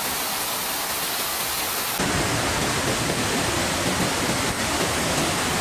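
Steady rush of water from flash-flood runoff, which changes abruptly about two seconds in to a louder, deeper rush.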